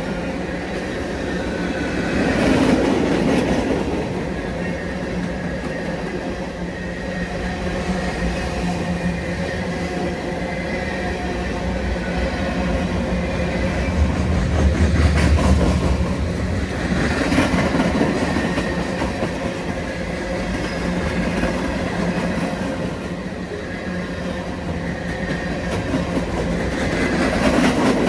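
A train running past on the tracks: a continuous rumble of wheels on rails under a steady low hum, swelling in loudness several times.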